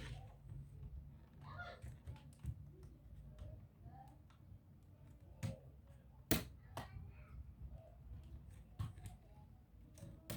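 Scattered light clicks and taps of plastic laptop parts and small tools being handled during disassembly, with one sharper click about six seconds in, over a low steady hum.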